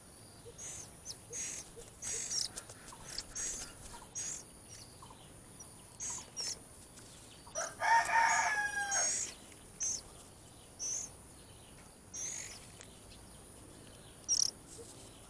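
A rooster crows once, about eight seconds in, and this is the loudest sound. Short, high bird chirps come every second or so around it.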